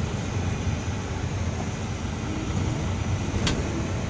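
Steady low rumble of a running vehicle, heard from inside the cabin, with a single sharp click about three and a half seconds in.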